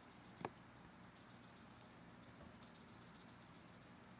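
Faint, light rattling of garlic salt being shaken from a seasoning shaker, in short clusters of fine ticks. There is one sharp tap about half a second in.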